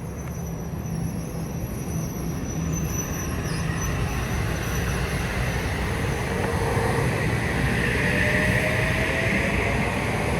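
A train rolling in, its rumble and rail hiss growing steadily louder, with a faint whine that rises slightly in pitch over the last few seconds.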